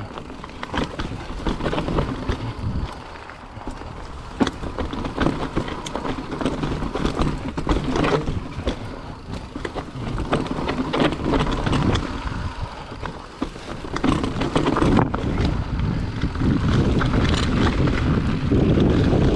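Mountain bike descending a steep dirt trail: tyres rolling and crunching over dirt and rock, with frequent rattles and knocks from the bike, and wind rushing over the microphone that grows louder near the end as speed builds.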